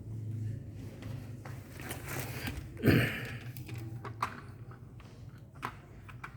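Handling noises from work on a dot-matrix printer ribbon cartridge: scattered small clicks and rustling, with one louder clatter about three seconds in, over a steady low hum.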